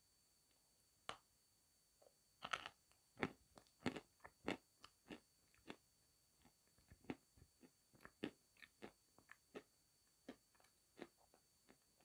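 Close-miked crunching and chewing of a hard white chalk-like lump coated in brown paste: irregular crisp crunches, a few a second, loudest a few seconds in and then lighter as the bite is chewed down.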